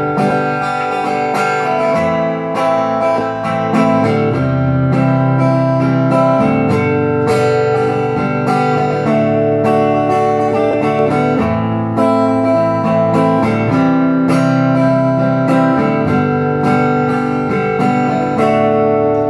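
Acoustic guitar strummed steadily, chords ringing in an instrumental passage of a song with no singing.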